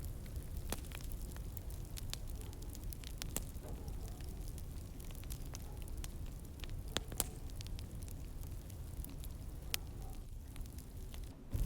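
Wood fire burning in a fireplace: a low steady rumble of the flames with irregular sharp crackles and pops scattered throughout.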